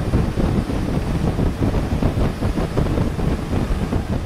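Long-tail boat under way: a loud, uneven low rumble of its engine mixed with wind buffeting the microphone.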